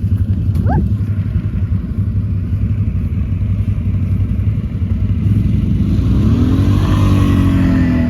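ATV engine running steadily under load. A brief rising squeal comes about a second in, and near the end a second pitched note rises and falls.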